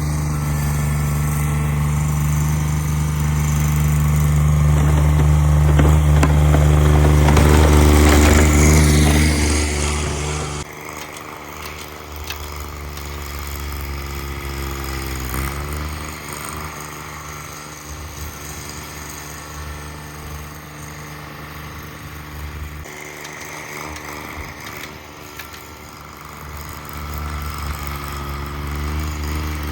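Cub Cadet 1782 garden tractor engine running, loud and steady for about ten seconds, then dropping suddenly to a quieter level. Its pitch dips briefly about halfway through, and it grows louder again near the end.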